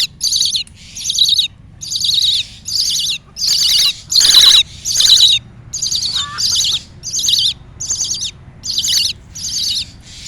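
Birds calling in a fast, regular series of short harsh chirps, about two a second, high and raspy, around a grounded chick whose parent is close by.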